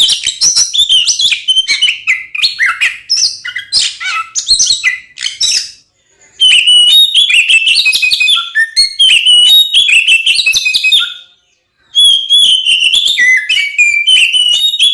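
Oriental magpie-robin (kacer) singing loudly and without a break in rapid, varied whistles and chatters, the aggressive fighting song known as 'ngeplong tarung'. It stops twice for under a second, about six seconds in and again near twelve seconds.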